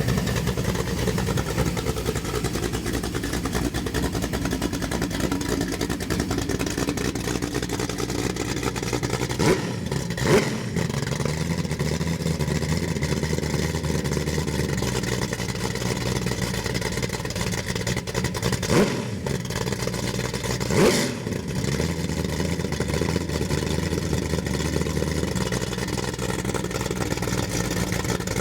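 Ford 347 cubic-inch stroker V8 (302-based, Holley Sniper fuel injection) running steadily on an engine test stand, with about four short revs of the throttle, two near the middle and two a little later.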